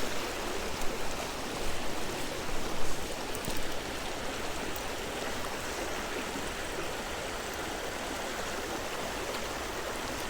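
Creek water rushing steadily over rocks, with a few brief louder sounds in the first four seconds.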